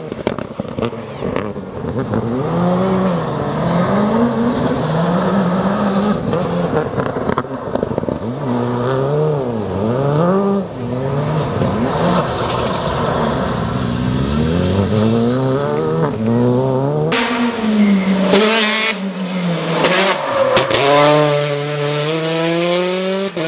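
Rally car engine revving hard, its pitch climbing and dropping again and again as the driver goes on and off the throttle and shifts through corners, with sharp exhaust cracks. Near the end the engine climbs steadily in pitch under acceleration over a loud hiss.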